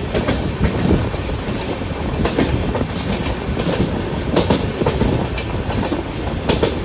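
Ajmer Shatabdi express running past: a steady rumble with irregular wheel clicks and clatter over the rail joints.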